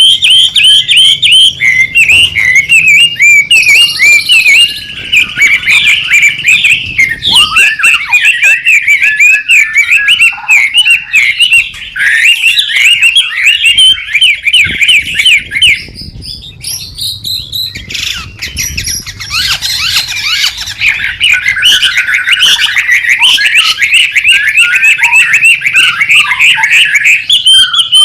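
White-rumped shama singing a loud, busy song of rapid chattering and whistled notes, easing off briefly about sixteen seconds in before starting up again.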